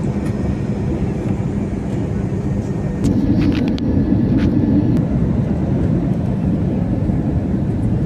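Steady roar of a passenger jet's engines and rushing air heard inside the cabin, growing louder about three seconds in, with a few light clicks.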